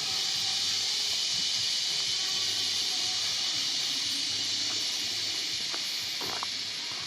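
A steady high-pitched hiss that fades a little toward the end.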